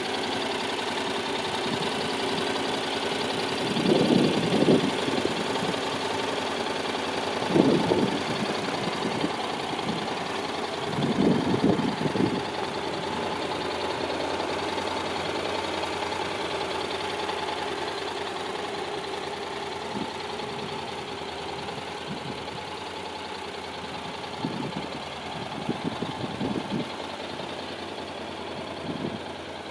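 Honda NC750X's parallel-twin engine running at idle with a steady hum. About three brief louder swells come in the first half, and weaker ones near the end.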